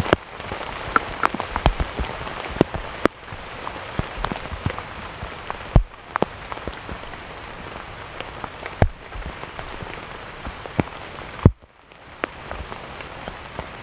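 Heavy rain falling, with many sharp, irregular taps of drops striking close to the microphone over a steady hiss.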